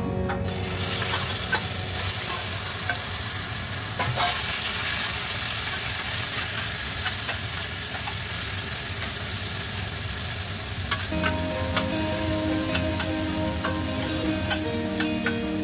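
Raw chicken pieces hit hot oil in a stainless steel frying pan and sizzle loudly, then fry steadily while a spatula stirs them, with scattered clicks of the spatula against the pan.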